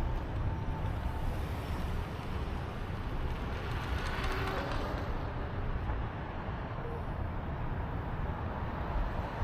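Steady wind rumble on the microphone and road noise from riding a bicycle. A hiss swells and fades about four seconds in, like a vehicle passing.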